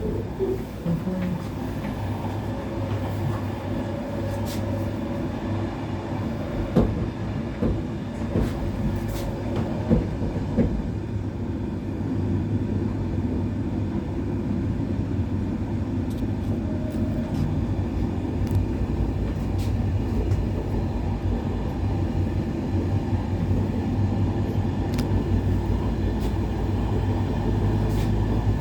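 Passenger train running along the track, heard from inside the carriage: a steady rumble with scattered sharp knocks from the wheels and coach in the first ten seconds or so, and the rumble grows slightly louder towards the end.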